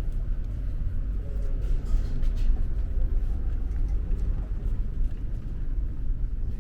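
Steady low rumble of a ferry underway, its engines and hull droning at a constant level.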